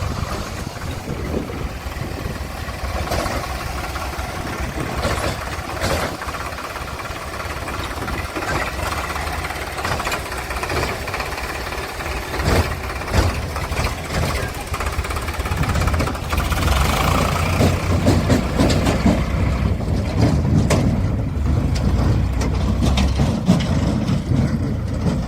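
Diesel engines of a backhoe loader and tractors running, with several short knocks or clanks. The engine rumble grows louder about two-thirds of the way through.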